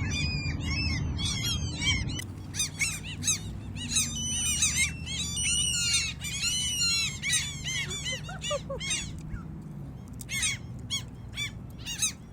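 A flock of gulls calling: many overlapping short, repeated cries. The calls thicken about two seconds in and thin out to scattered cries near the end.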